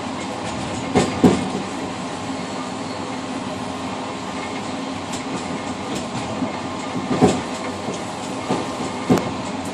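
Passenger train rolling along, heard from inside the rear cab: a steady running rumble, with pairs of sharp clickety-clack knocks as the wheels pass over rail joints about a second in and again near the end.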